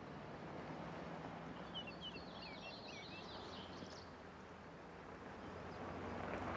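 Faint outdoor ambience: a small bird chirping in a quick run of short falling notes about two seconds in, over steady low background noise with a faint low hum.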